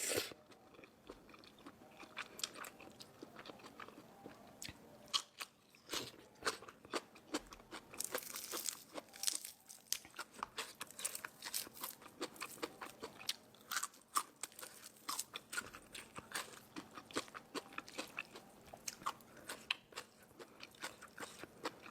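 Close-up crunching and chewing of crisp food: many sharp, irregular crunches from bites and chews, coming thickest a little before the middle.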